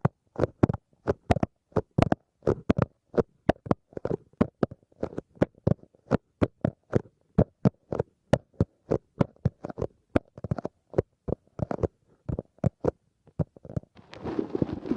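ASMR tapping: quick, uneven taps, several a second, dull and thudding. Near the end a rustling, crackly noise sets in.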